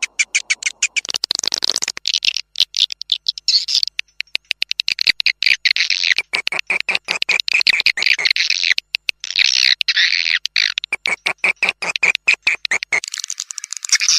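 Swiftlet calls played as a lure sound for swiftlet houses: dense, fast twittering chirps and clicks that stop and start with brief gaps. About thirteen seconds in, the sound changes to a thinner, higher twitter.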